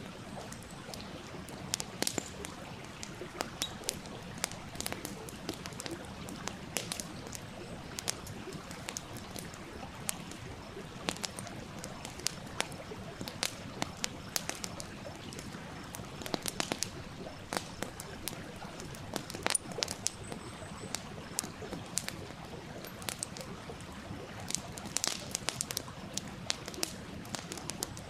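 Wood campfire crackling, with frequent irregular sharp snaps and pops, over the steady rush of a small stream.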